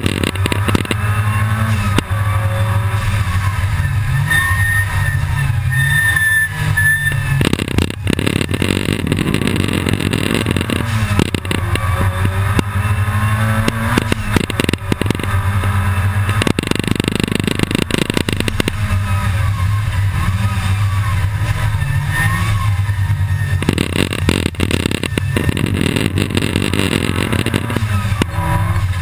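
Supercharged G60 Mk II Volkswagen Golf GTI race car's engine, heard inside the cabin, pulling hard at full throttle in several stretches and easing off between them, its note rising and falling as the car laps the circuit.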